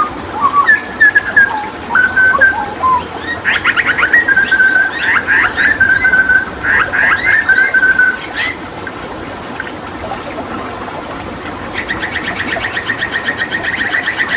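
Hooded butcherbird singing: clear whistled notes mixed with sharp clicking calls, pausing about eight seconds in, then a rapid, even trill from about twelve seconds on, over a steady background hiss of running water.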